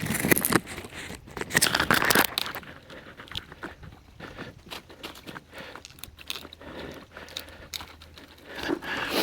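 Twigs and brush rustling, crackling and snapping as they are handled, with loud bursts at the start, around two seconds in and near the end.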